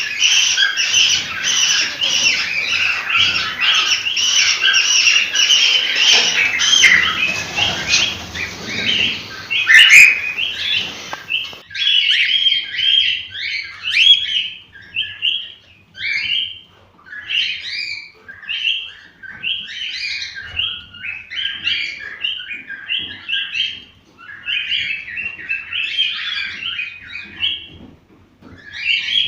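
Cockatiels chirping and warbling in quick, repeated phrases. About twelve seconds in, the dense, continuous chatter with background hiss gives way to a cleaner stretch of separate bursts of chirps with short pauses between them.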